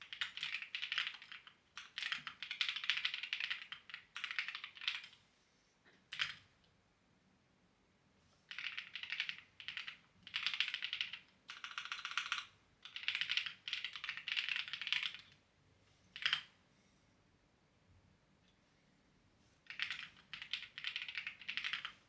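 Clacky computer keyboard being typed on in bursts of one to three seconds, separated by short pauses. There are a couple of lone keystrokes, and a longer pause of about four seconds before a last burst of typing near the end.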